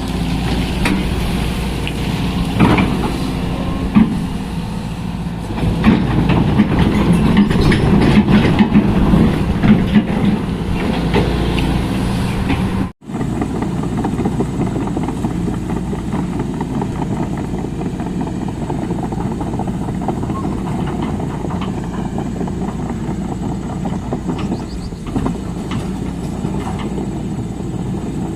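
Sany SY215C excavator's diesel engine running under load, with sharp knocks and clanks in the first half. The sound drops out for an instant about halfway through, then runs on steadier.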